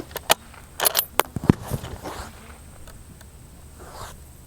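Bolt of a bolt-action precision rifle being worked right after a shot: a quick run of sharp metallic clicks and scrapes in the first second and a half, then fainter handling noises.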